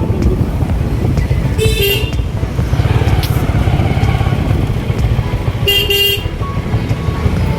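Motorcycle running with a steady low rumble while riding, and a vehicle horn honking briefly twice, about two seconds in and again about six seconds in.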